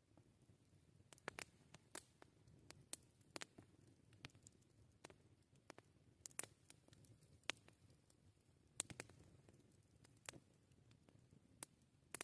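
Wood campfire crackling quietly: irregular sharp pops and snaps, a few a second, over a faint low background haze.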